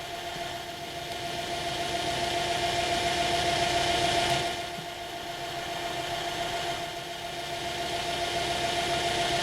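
A drilling machine's motor runs steadily while a drill bit cuts through a metal part, fed in slowly. The cutting hiss builds, eases off about four and a half seconds in and again around seven seconds, then builds again.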